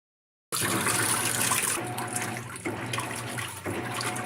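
Water rushing and sloshing in a Maytag top-load washer's tub, over a steady low motor hum, as the machine fills and starts its wash. The sound starts and cuts off abruptly.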